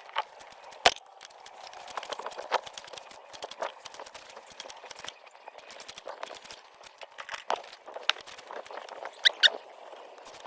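Irregular clinks and knocks of hand tools on metal engine parts, with a sharp knock about a second in and two short ringing clinks near the end.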